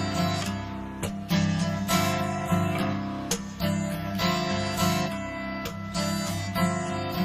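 Acoustic guitar strumming chords in an instrumental passage of a live song, each strum a loud attack that rings on.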